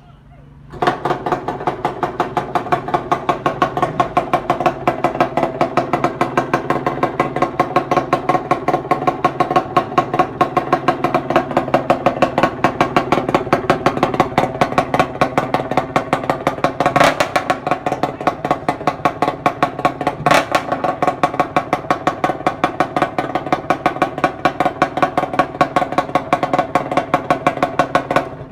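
Yamaha F1ZR's modified two-stroke engine starting about a second in and then idling evenly through a short homemade open exhaust pipe, a loud rapid popping beat. Near the middle it gives two brief sharper blips.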